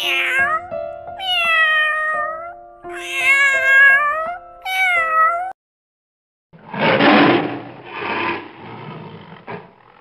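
Kitten meowing four times, the calls sliding down in pitch, over a steady held tone of background music. After a pause about halfway through, a lion roars in several rough pulses.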